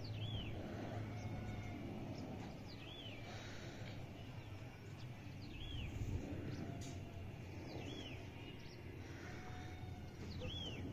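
A bird repeating the same short, high, swooping call five times, about every two and a half seconds, over a steady low rumble.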